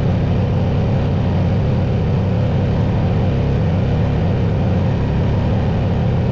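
Kawasaki FR730V V-twin engine of a Husqvarna riding mower running steadily on its first run after a fresh oil, oil filter and fuel filter change.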